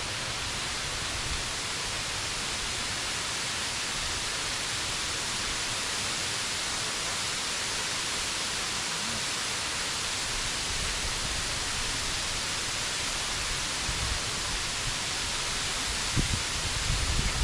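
Steady rushing noise of Kare Kare Falls, a tall waterfall, falling water heard close by. A few low thuds on the microphone near the end.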